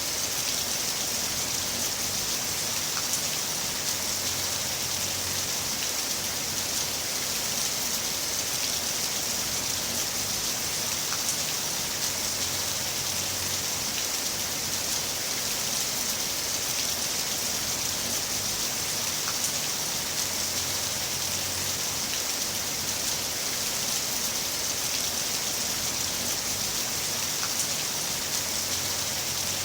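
Heavy rain falling steadily: a dense, even hiss with scattered drops ticking through it.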